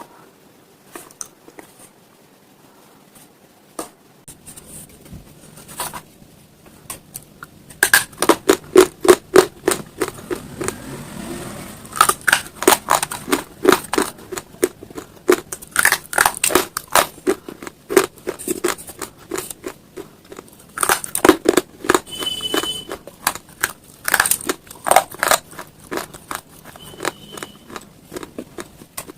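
Close-miked crunching of brittle slate stone being bitten and chewed: rapid sharp cracks, sparse and quieter for the first several seconds, then dense and loud from about eight seconds in.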